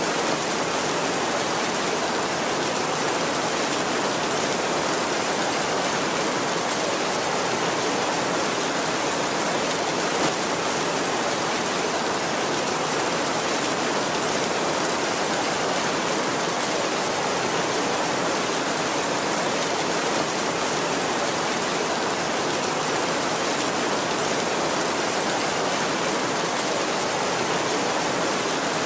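Heavy rain falling steadily on a tin roof, an even, unbroken rush with no thunder.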